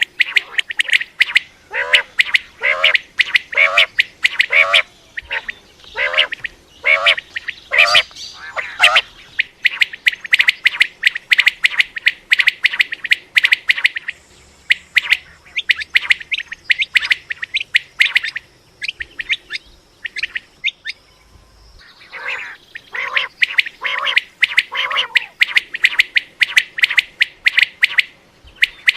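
Common quail calling: long runs of short, sharp high notes in quick succession. Lower, harsher calls are mixed in during the first third and again a few seconds before the end.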